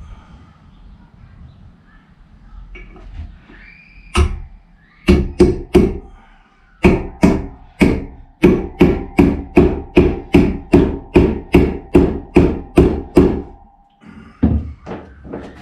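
Hammer blows driving a wheel bearing into a motorcycle's front hub. There is one strike, then a quick three, then a steady run of about twenty strikes at roughly three a second, each with a short metallic ring.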